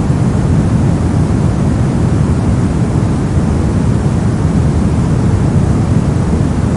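Brown noise: a steady, loud, unchanging rumble of random noise weighted heavily toward the low end, with the highs rolled off, and no events or changes.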